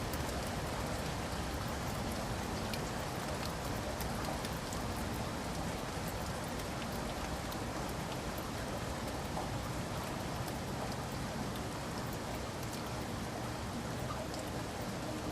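Steady rain falling, with scattered drops tapping.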